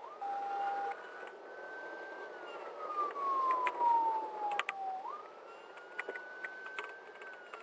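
Patrol car siren in wail mode during a high-speed pursuit. It rises quickly, holds high, then falls slowly, twice in a row.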